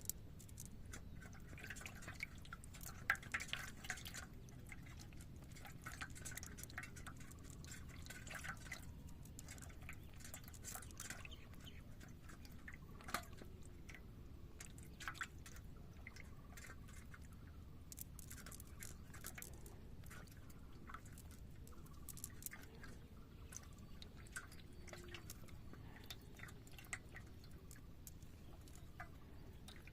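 Irregular small splashes and drips of water, with scattered sharper clicks.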